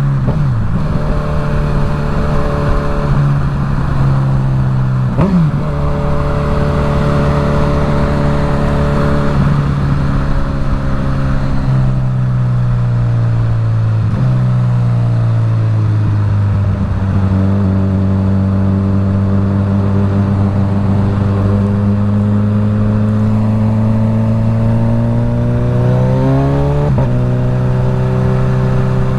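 Suzuki GSX-S1000's inline-four engine through a full Dominator aftermarket exhaust, pulling under way. Its pitch drops sharply a few times at gear changes and climbs again, with a long slow rise in the second half. Wind rushes over the helmet microphone.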